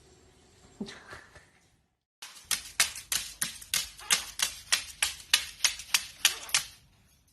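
A quick run of sharp taps or clicks, about four a second, lasting roughly four seconds and stopping shortly before the end.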